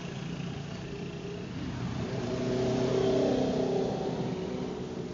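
A vehicle engine running at high revs, swelling to its loudest about three seconds in and then fading.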